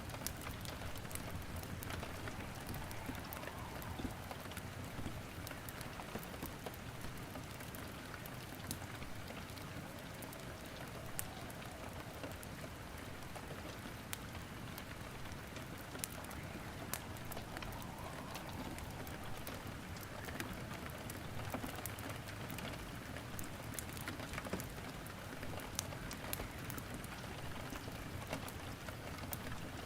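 Steady rain mixed with a wood fire crackling in a fireplace: an even hiss with scattered sharp pops and snaps throughout.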